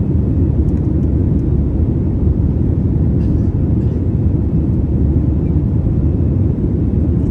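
Steady low rumble of an Airbus A321's jet engines and rushing air after takeoff.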